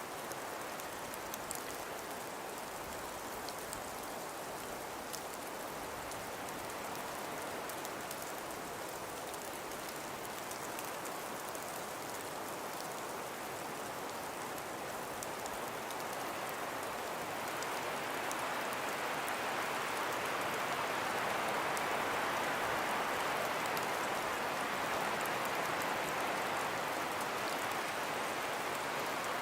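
Blizzard ambience: wind with snow blowing and falling, a steady hiss scattered with fine ticks of snow grains. It swells louder a little past halfway.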